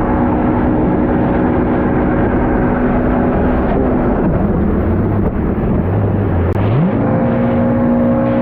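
Stand-up jet ski engine held at high revs, dropping to a low rumble a little after three seconds as the throttle comes off, then revving back up near the seven-second mark, over a steady rushing noise.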